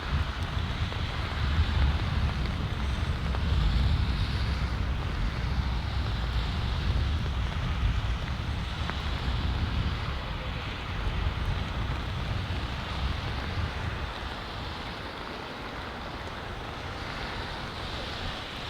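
Jet engine noise from a Boeing 737 MAX airliner landing on a wet runway, mixed with heavy wind noise on the microphone. It is loudest in the first few seconds and eases off toward the end.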